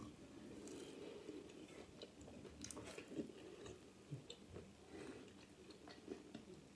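Faint chewing of a bite of an oven-baked breaded potato stick, with soft mouth sounds and small scattered clicks.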